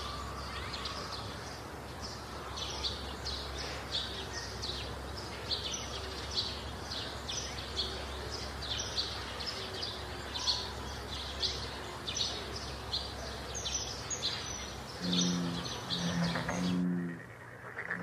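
Small birds chirping, a quick run of short high notes repeated two or three times a second over steady low background noise. Near the end come three short low pitched notes, then the sound drops away suddenly.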